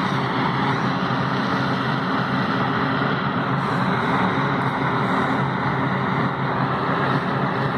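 A vehicle engine running steadily, with a constant hum over a dense noisy rush that does not change.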